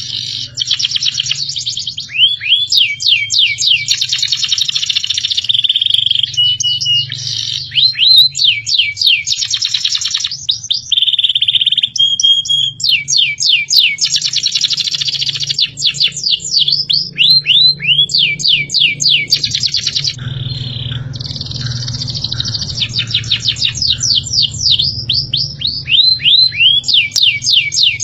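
Recorded songbird song of the kind used as masteran to train caged birds: loud bursts of rapid, repeated sweeping whistled notes, a second or two at a time, broken by short high steady whistles, over a steady low hum.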